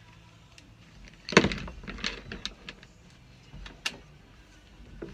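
Clattering knocks of plywood pieces and tools being handled on the bench after a jigsaw cut, with one sharp knock near four seconds; the saw is not running.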